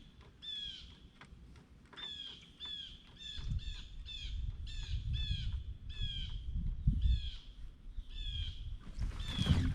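A bird calling over and over, a quick series of short downward-sliding calls at about two a second, with a low rumble coming in partway through.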